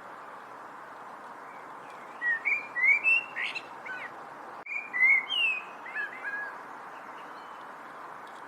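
A songbird singing two bursts of quick, sliding whistled notes, about two seconds in and again about five seconds in, over a steady background hiss.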